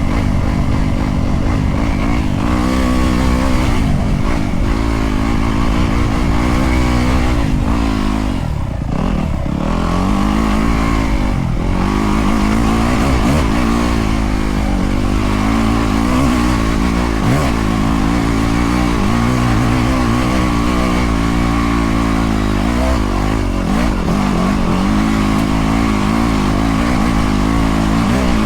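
Dirt bike engine being ridden, revving up and down over and over, its pitch rising and falling every second or two, with a short drop in revs around nine seconds in.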